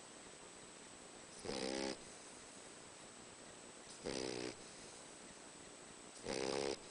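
Boxer dog snoring: three snores about two and a half seconds apart, each lasting about half a second.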